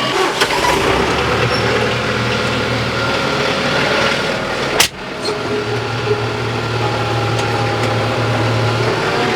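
Diesel tractor engine running steadily, with one sharp clack about halfway through.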